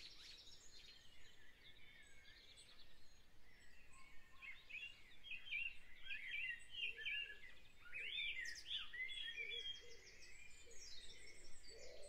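Faint bird chirps in the background: a run of short, quick calls that rise and fall in pitch, busiest through the middle of the stretch.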